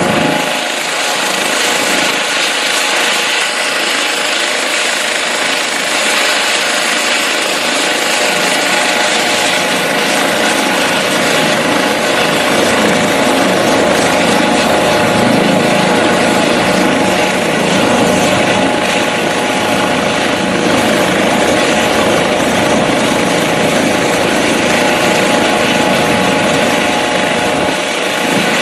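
Medical helicopter running steadily: a constant engine whine over the noise of the rotor.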